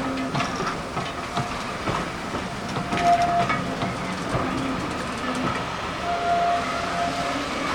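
Train running along the track, with a steady rumble and irregular knocks from the wheels. Two short steady high tones sound, a brief one about three seconds in and a longer one about six seconds in.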